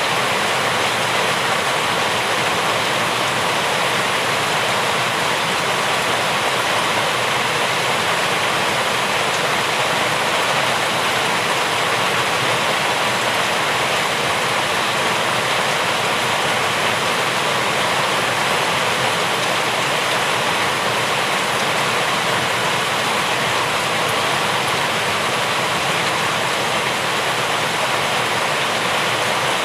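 Steady rain falling: an even, unbroken hiss, with no single drops, thunder or other events standing out.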